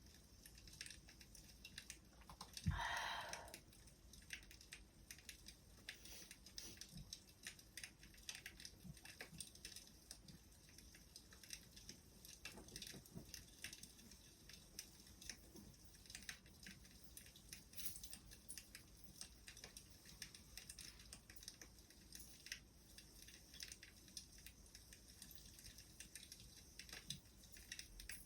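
Wood fire crackling softly: a steady scatter of small sharp pops and snaps, with one louder brief hiss about three seconds in.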